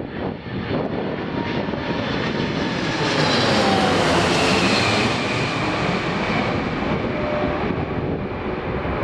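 Boeing 747-400 jet airliner passing on its landing approach, its four turbofan engines making a loud roar. The roar swells to its loudest and brightest about four seconds in, while a whine falls in pitch as the aircraft goes by.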